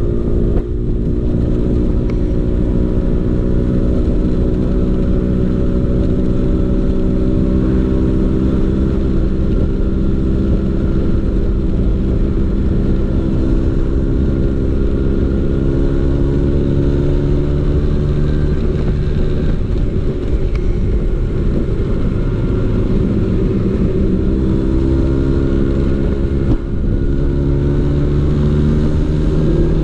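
Vespa PX 150's two-stroke single-cylinder engine running through a DRC Victory racing exhaust at a fairly steady pitch that drifts gently up and down. It briefly drops in level about a second in and again near the end.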